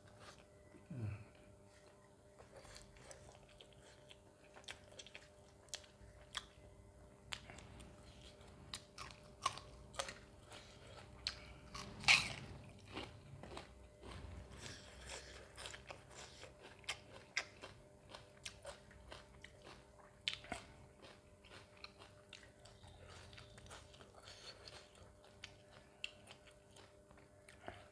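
Close-miked eating sounds: a person chewing and biting mutton curry and roti, with many short, sharp bite and mouth clicks, the loudest about twelve seconds in.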